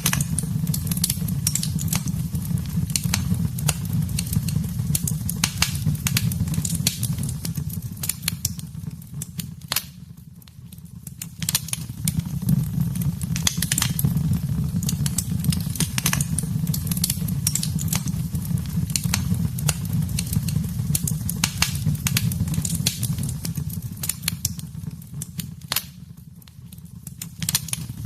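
Wood fire crackling in a fireplace: frequent sharp snaps over a low steady rumble. The sound dips quieter for about a second twice, about ten seconds in and again near the end.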